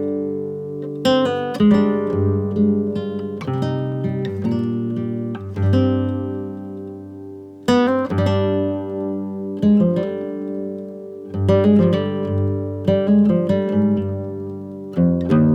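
Background music played on acoustic guitar: plucked and strummed chords, each one ringing out and fading before the next.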